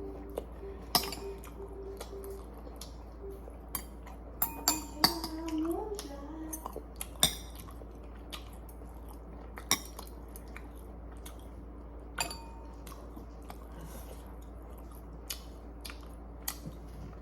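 Eating at a table: utensils clicking and clinking against dishes a dozen or so times at irregular intervals, with chewing between. A short wavering pitched sound comes in about a third of the way through, and a steady low hum runs underneath.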